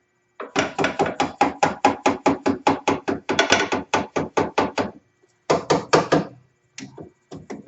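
Hammer blows driving the A-arm bolts through the new, tight-fitting bushings. There is a fast run of strikes, about five a second, for roughly four seconds. After a short pause come three more blows and a few lighter taps near the end.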